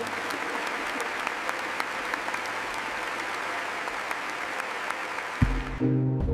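Audience applauding, a dense patter of clapping hands. Near the end a deep thump sounds and music comes in.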